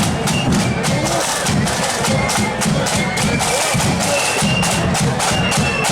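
Marching flute band playing: a high flute melody in short held notes over steady snare and bass drum beats.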